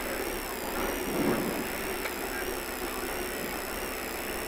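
Mitsubishi Lancer Evo IV's turbocharged four-cylinder engine idling steadily, heard from inside the cabin with the car standing still.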